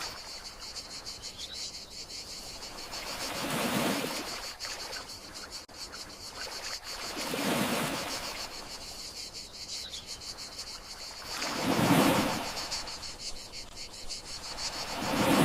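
Gentle sea waves washing ashore about every four seconds, each swelling and fading, four times, the strongest about three quarters of the way through. A steady chorus of crickets chirps high above them.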